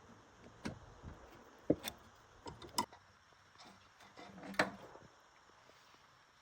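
Irregular light knocks and clicks of hard objects being handled, about six over a few seconds, the sharpest a little under two seconds in.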